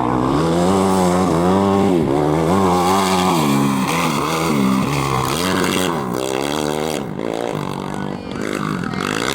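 A competition engine revving hard and then easing off, over and over, its pitch rising and falling about once or twice a second as the vehicle is driven through the turns of a dirt slalom course.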